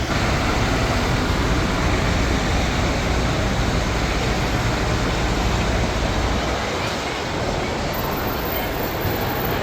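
Jet airliner noise: a steady rush with a deep rumble underneath that falls away about seven seconds in.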